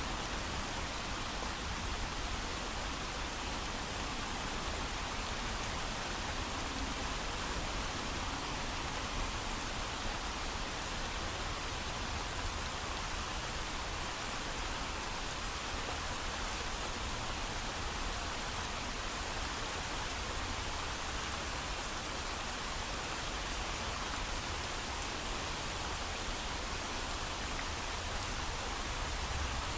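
Steady heavy rain falling, a constant even hiss without thunder.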